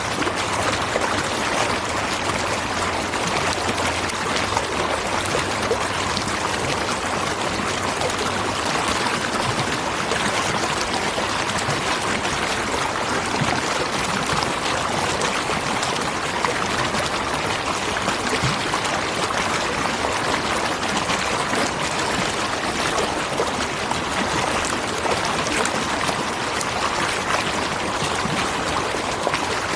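A natural waterfall: water falling and rushing in a steady, unbroken hiss.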